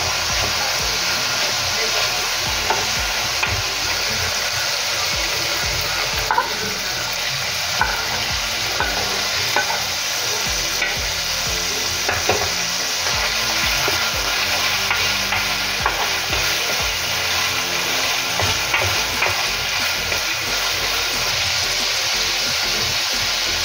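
Ground beef sizzling in oil in a nonstick frying pan while a spatula stirs it, with scattered sharp clicks and scrapes of the spatula against the pan.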